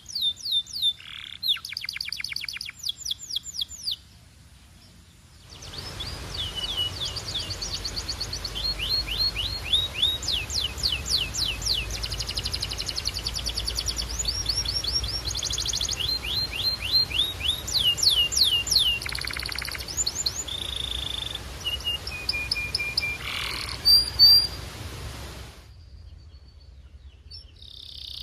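Domestic canary singing: long fast trills of repeated sweeping notes, switching from one trill type to the next, with a short pause about four seconds in.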